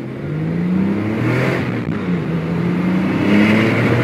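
Porsche 997 Turbo's twin-turbo flat-six accelerating hard. Its pitch climbs, drops at an upshift about two seconds in, then climbs again before dropping once more near the end.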